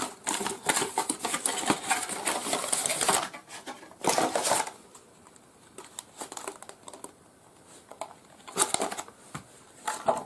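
Packaging being handled and unpacked, plastic and paper rustling and crinkling: dense rustling for about three seconds, a short burst about four seconds in, then quieter scattered handling noises with two brief rustles near the end.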